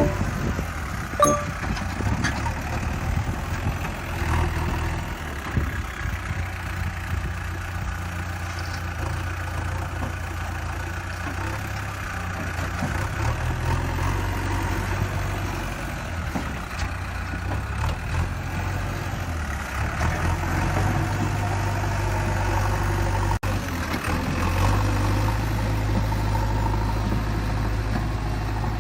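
A vehicle engine running steadily with a low rumble, briefly cutting out for an instant near the end and then running on.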